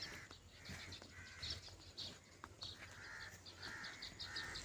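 Faint bird calls: a run of short repeated calls, roughly one every half second to second, with quicker high chirping over them.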